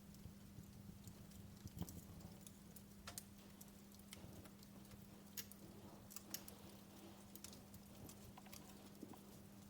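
Wood fire crackling in a fireplace: faint, irregular pops and snaps about once a second, over a steady low hum.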